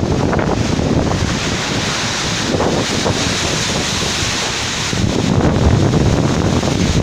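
Violent storm wind gusting hard and buffeting the microphone in surges, growing louder about five seconds in.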